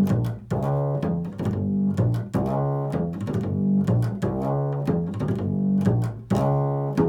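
Low-pitched plucked string instrument playing an improvised line of notes, about two a second, each struck sharply and left to ring.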